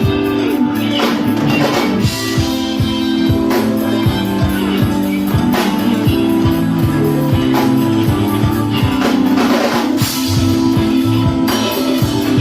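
Live band playing a loud, steady groove with drum kit, bass and electric guitar.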